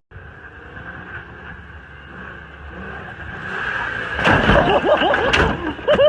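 A vehicle engine running and getting louder over the last few seconds, with several sharp knocks near the end.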